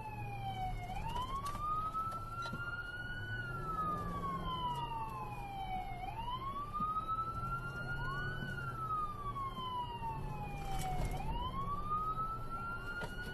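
Police car siren on a slow wail: each cycle rises quickly, then falls slowly over about five seconds, about two and a half cycles in all. A steady low vehicle hum runs underneath.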